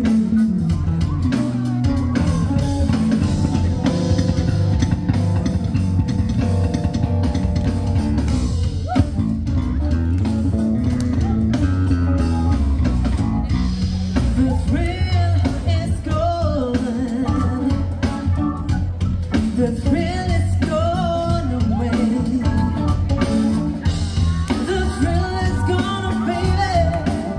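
A live band playing a blues-rock number: electric guitar, bass guitar and drum kit, with a singing voice carrying a wavering melody over it from about halfway through.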